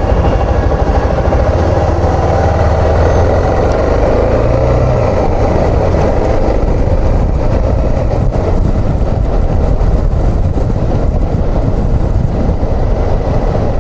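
Suzuki XF650 Freewind's single-cylinder engine running steadily while the motorcycle is ridden; the engine note drops a little about five seconds in.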